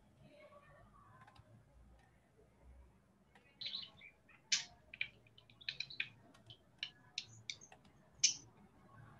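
Bird chirping: a quick run of short, high chirps starting a few seconds in, the loudest one near the end.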